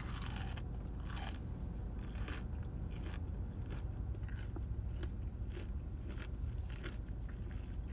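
A person chewing and biting crunchy fried fast food close to the microphone, with short crisp crunches every half second to a second.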